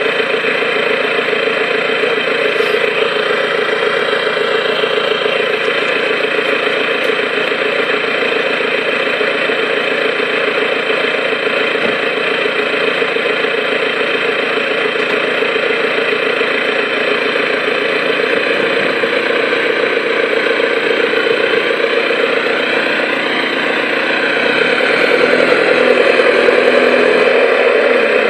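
Vauxhall Vectra 1.9 CDTi four-cylinder turbodiesel idling steadily through a straight-through exhaust with no cat or silencers, only the front pre-cat. It is a little louder over the last few seconds.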